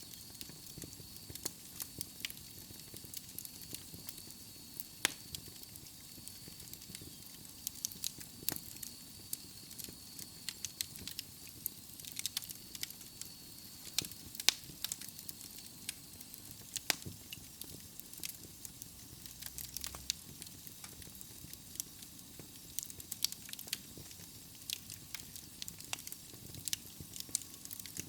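Wood fire burning in a fireplace: logs crackling and popping in irregular sharp snaps over a steady soft hiss, with a faint high whistle that fades about halfway through.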